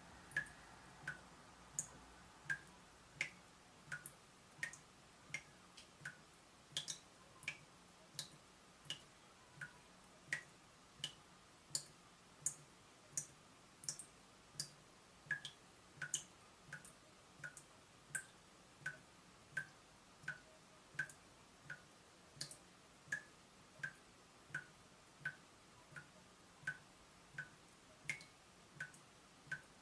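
Leaking tap dripping steadily, each drop a short sharp plink, about three drops every two seconds.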